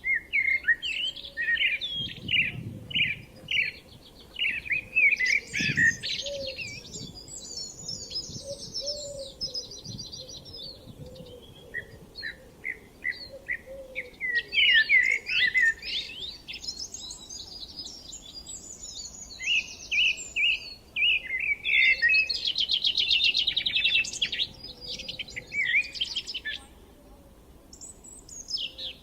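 Songbirds singing in the open: a run of varied, quick song phrases with rapid trills, overlapping and pausing briefly between bouts.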